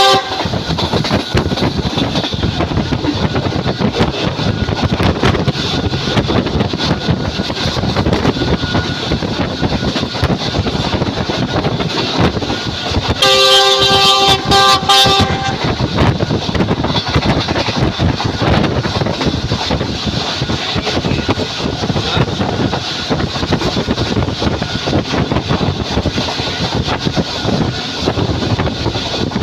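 Passenger train running at speed, a steady clatter and rumble of wheels on rails. About halfway through, a multi-tone train horn sounds for about two seconds in a few short blasts.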